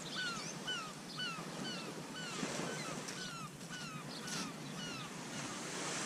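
Birds calling over the sea: a run of short falling calls, about two a second, that thins out near the end, over the steady hiss of surf.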